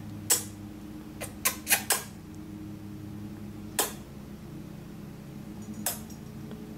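Short lip-smacking kiss noises, seven in all, four of them close together about a second in, over a steady low hum.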